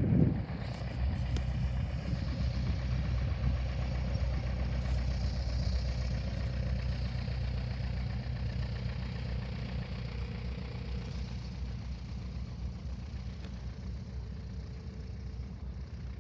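An aircraft engine running steadily with a low hum, slowly fading, after a brief thump at the very start.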